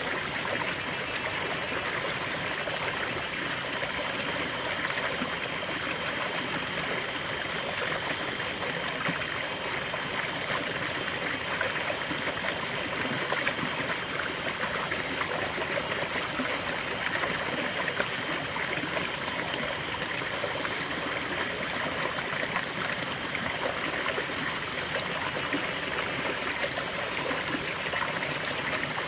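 Water of a small forest waterfall and stream flowing and splashing steadily, an even rushing with a trickling edge.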